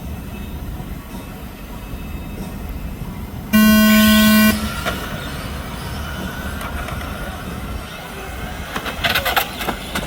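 A loud, steady buzzer-like horn tone lasting about a second, the start signal of an RC truck race, over a steady outdoor background. After it a faint whine from the trucks' motors, and a few sharp clicks near the end.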